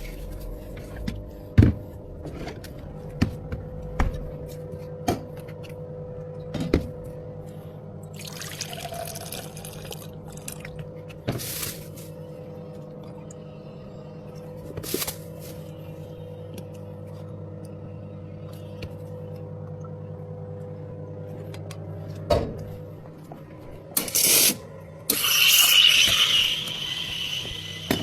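Drink-making sounds at a bubble tea counter: light knocks and clinks of cups and tools over a steady machine hum, with short hissing bursts. Near the end comes the loudest part, a few seconds of liquid running hard into a container.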